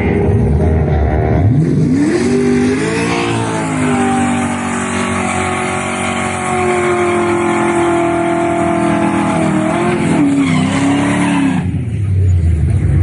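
Vehicle engine revving up about two seconds in, holding a high steady note, then dropping back and cutting out near the end, leaving a low rumble.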